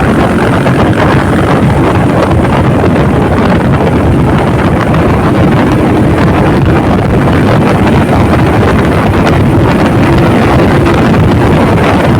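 Wind rushing over the microphone while riding a motorcycle at speed, with the engine running steadily underneath.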